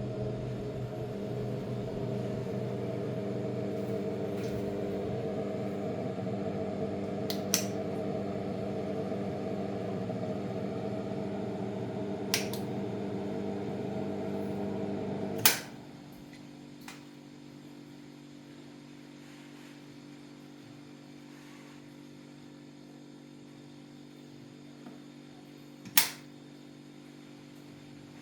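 Steady electric motor hum from a running machine, with a loud click about halfway through, after which the hum drops to a quieter, lower level. A few other sharp clicks come before and after.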